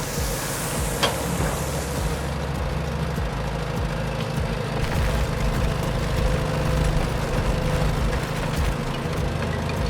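An engine idling steadily with a low, even rumble, and a sharp click about a second in.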